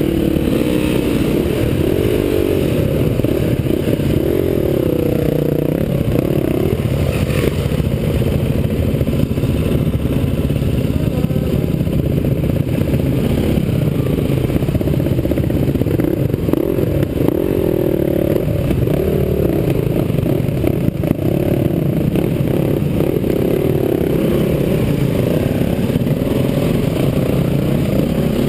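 Several enduro dirt-bike engines running at low speed, idling and revving lightly, their pitch wavering up and down as the bikes move off slowly. The sound is muffled, with most of it low.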